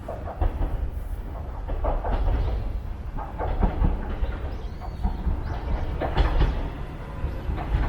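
Train running on the rails with a steady low rumble and irregular clacks as its wheels cross rail joints.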